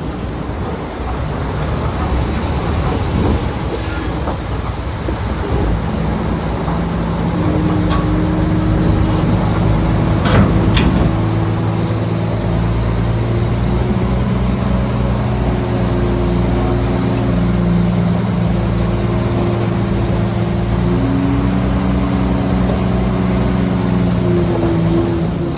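Heavy diesel engine of earthmoving equipment running, its steady drone firming up about seven seconds in, with a brief sharp metallic noise around the middle.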